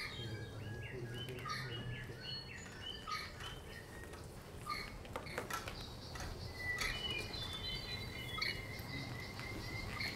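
Bird chirps: many short chirping notes, then a fast, even trill from about seven seconds in, over a low hum.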